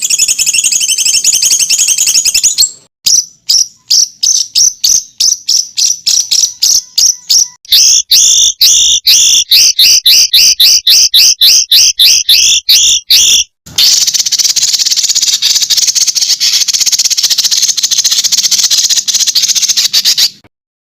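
Songbird masteran recording of rapid, high-pitched 'tembakan' song in abrupt sections. It opens with a fast trill, then a run of sharp separate notes that speeds up, then a doubled note repeated about four times a second. It ends with a long, dense, buzzing trill that cuts off just before the end.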